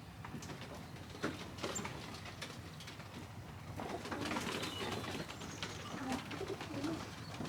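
Racing pigeons cooing, low warbling coos mostly in the second half, with a few sharp clicks and scuffles early on.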